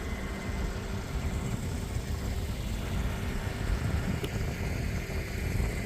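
Steady low rumble of a car on the move, heard from inside the cabin, with a faint steady hum over it.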